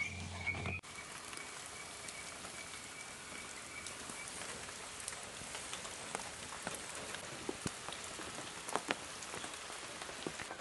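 Rain falling: a steady patter with scattered drops ticking sharply. In the first second a held tone and a low hum end in an abrupt cut.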